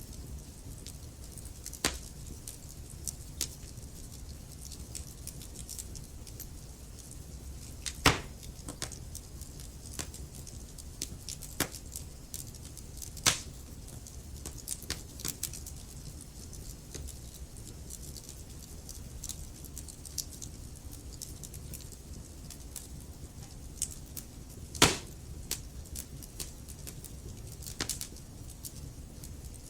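Logs burning in a fireplace: a low steady rumble of flames with scattered sharp crackles and pops, three of them much louder than the rest.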